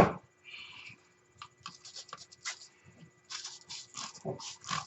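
Irregular scratching and scraping strokes as caked dirt is cleaned off an ATV front drive axle by hand, with a sharp knock at the very start and a denser run of strokes near the end.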